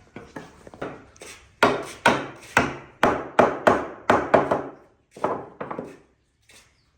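A quick run of sharp knocks on wood, about two to three a second, fainter at first, loudest in the middle, and tailing off into lighter taps before stopping.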